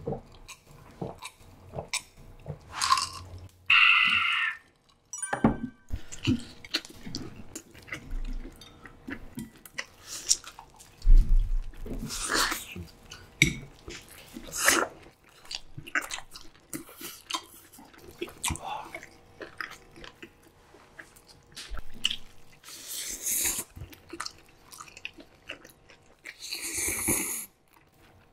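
Close-miked eating sounds: wet chewing and biting into a roasted pork belly, with mouth clicks and smacks throughout. Near the end come a few louder slurps of noodles.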